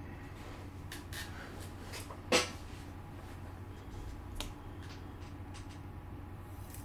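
A few short, light clicks and taps, the loudest about two and a half seconds in, over a steady low hum.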